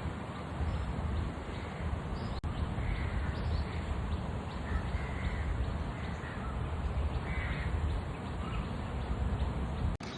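A crow cawing a few times, a couple of seconds apart, over a steady low rumble.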